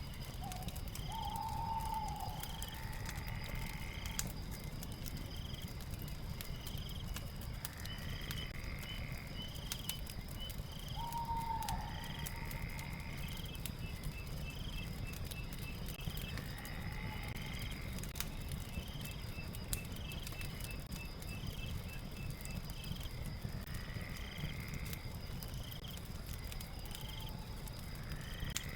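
Night ambience of several animal calls repeating in a regular pattern: short high chirps about once a second, fast trills in two stretches, and a lower falling call every few seconds. Under it a fire crackles with scattered sharp pops and a low rumble.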